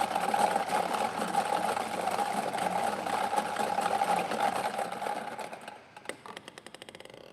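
Prize-draw number picker spinning after its button is pressed: a fast, steady rattle of rapid ticks that about six seconds in slows to separate, widening ticks and fades out as it settles on the drawn group number.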